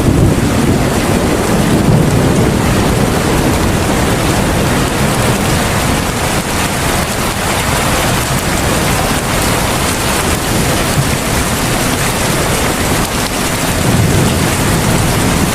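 Heavy rain pouring steadily, a dense even hiss, with a deeper low rumble swelling in the first few seconds and again near the end.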